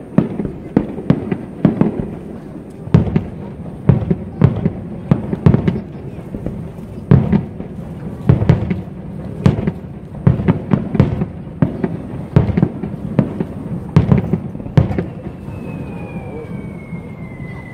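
A fireworks display: aerial shells bursting in quick, irregular clusters of loud bangs and crackles. A thin high whistle slowly falls in pitch near the end.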